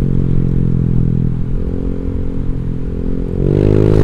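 Honda Vario 150 scooter's single-cylinder engine through an aftermarket Black Devil R2 Seca exhaust, running at steady throttle on the move, then revving up with a rising note about three and a half seconds in as the throttle is opened.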